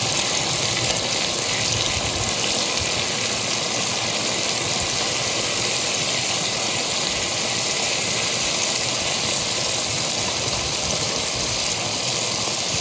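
Steady sizzling hiss from meat, onions and carrots frying in oil in a cast-iron kazan for plov, at the stage when the rice is being spread over the top.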